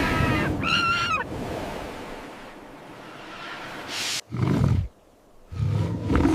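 Animal calls: a short wavering high call about half a second in, then deep roars about four seconds in and again near the end, separated by a brief silence.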